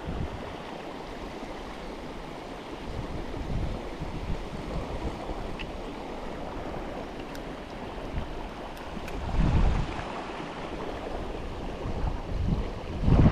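River water flowing steadily, with wind buffeting the microphone in a few low gusts, the strongest about nine and a half seconds in.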